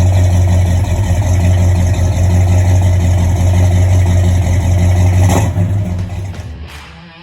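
Rebuilt Pontiac 400 V8 engine running steadily. A brief sharp noise about five seconds in, then the sound fades away over the last second or so.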